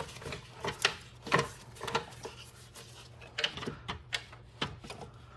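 Irregular light clicks and knocks of an engine wiring harness and its plastic clips and connectors being handled and pushed aside by hand, about six in all, over a faint steady low hum.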